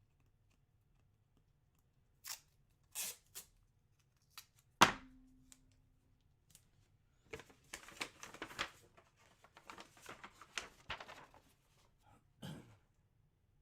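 Packaging being torn open and handled: scattered ripping and rustling strokes, one sharp knock about five seconds in with a short low ring after it, then a few seconds of busy rustling.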